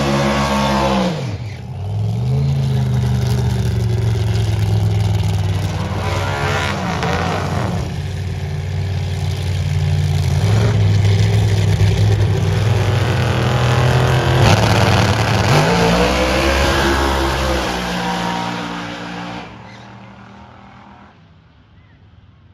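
Drag-race car engines of a Camaro and a Barracuda, loud, revving at the start line with the engine pitch dropping and climbing again several times, then fading away near the end as the cars run off down the track.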